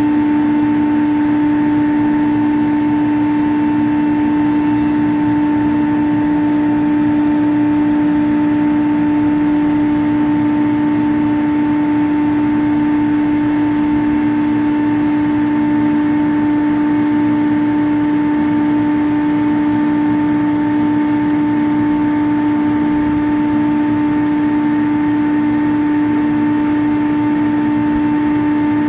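Steady machinery hum from running chiller equipment: one held low tone over a bed of noise, unchanging throughout.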